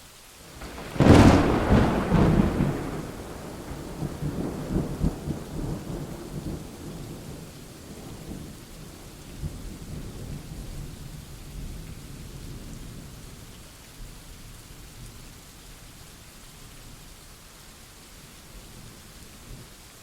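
A sharp thunderclap about a second in, then a rolling rumble that slowly dies away over the next ten seconds or so. Steady rain runs underneath.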